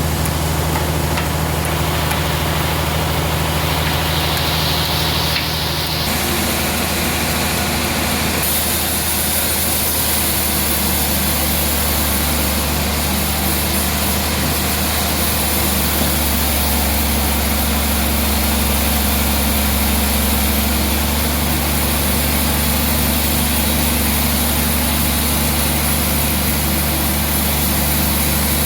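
Sawmill machinery running steadily with a low engine hum; its pitch shifts about six seconds in and a higher hiss joins a couple of seconds later.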